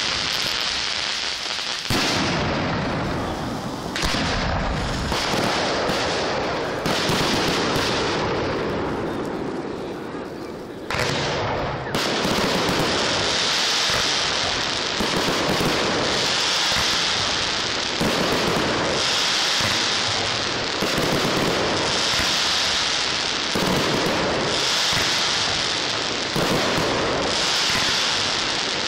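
Large fireworks display firing a continuous barrage of launches and bursts, with hissing and crackling. Heavy low thuds come in the first half, and later the hiss and crackle swells in waves about every two seconds.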